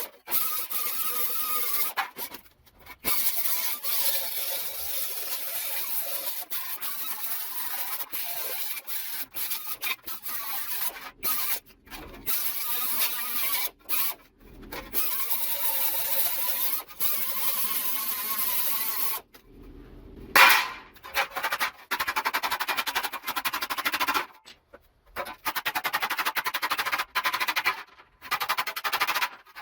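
Power tool cutting sheet metal, a high rasping whine that wavers under load, heard in short stretches cut off abruptly by silent gaps.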